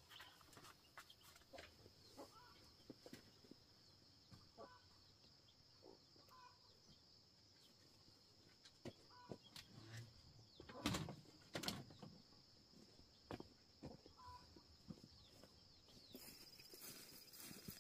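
Faint, sparse sounds: short bird calls now and then among scattered soft knocks and taps, with two louder knocks about two-thirds of the way through.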